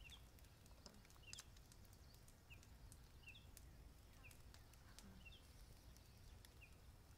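Near silence with a small bird repeating a short, high chirp about once a second, and scattered faint clicks.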